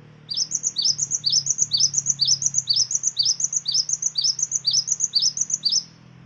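Gelatik batu (cinereous tit) singing, played as a pancingan lure recording: one high, clear phrase repeated about a dozen times at roughly two a second, each phrase sweeping down in pitch. The song starts just after the beginning and stops shortly before the end, over a faint steady low hum.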